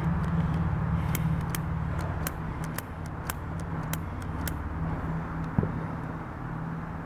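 A scatter of sharp cracks, like distant firecrackers popping, comes in an irregular run over the first four and a half seconds and then stops. A steady low hum runs underneath, and there is one louder knock a little after five seconds in.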